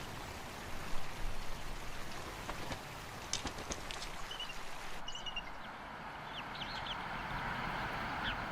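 Steady rushing outdoor noise, like wind, with a few faint, short, high chirps and peeps from about three seconds in.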